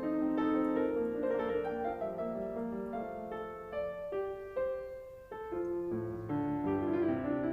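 Background piano music: single notes and chords struck one after another, each ringing and fading, with a short lull about five seconds in.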